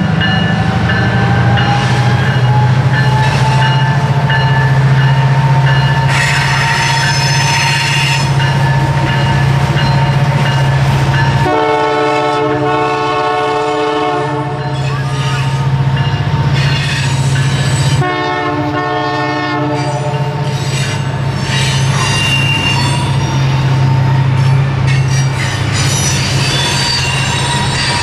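Canadian Pacific Holiday Train passing, with a steady low rumble and a thin whine rising in pitch in the first few seconds. The locomotive's horn sounds twice: a blast of about three seconds starting about eleven seconds in, then a shorter one of about two seconds some four seconds later.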